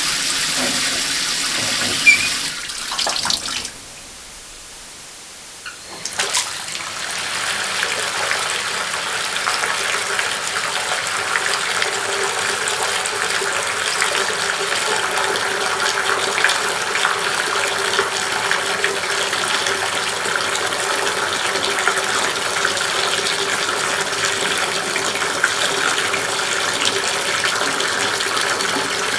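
Water running from a bathroom tap, with a sharp click about two seconds in and a drop to a quiet gap; at about six seconds water starts again and runs steadily.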